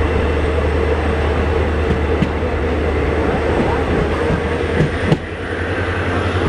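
A running express train heard from inside a passenger coach: a steady rumble with a deep hum, and a few sharp knocks from the wheels, two of them close together about five seconds in.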